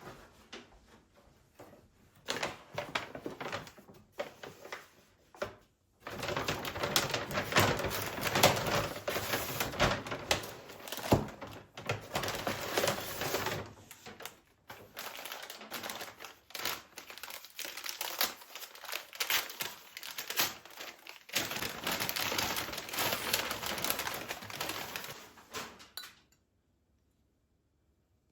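Dense rapid clicking and rustling of things being handled, sparse at first, then continuous for most of the time, stopping abruptly near the end.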